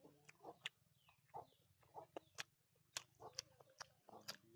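Faint clucking of chickens, several short calls in a row, mixed with a few sharp wet clicks and smacks of chewing with the mouth close to the microphone.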